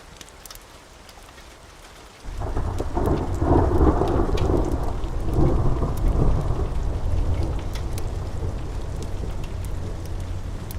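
Steady rain, then a long thunder roll breaks in suddenly about two seconds in. It swells twice and then slowly eases off into a continuing low rumble.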